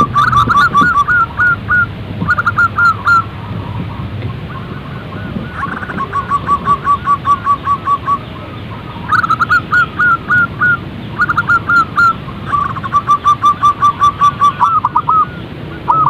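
Zebra dove (perkutut) calling: phrases of quick, evenly spaced cooing notes repeated one after another with short pauses between them.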